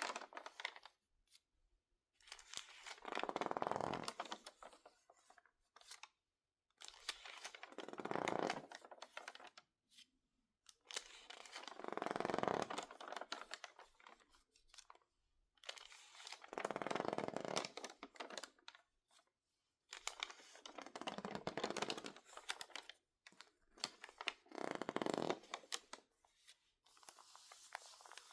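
Crinkled, water-damaged magazine pages being handled close up: about six separate bursts of dry crackling and crinkling, each about two seconds long, with short quiet gaps between them and a fainter one near the end.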